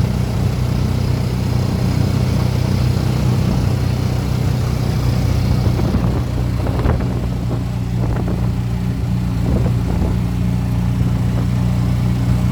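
A motor vehicle's engine running steadily with a low, even hum, with a few short rattles or knocks over the noise in the second half.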